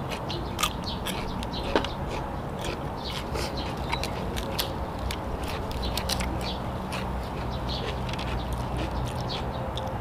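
Close-up eating sounds: a person crunching and chewing raw cucumber and lettuce, a steady run of irregular small crunches and clicks.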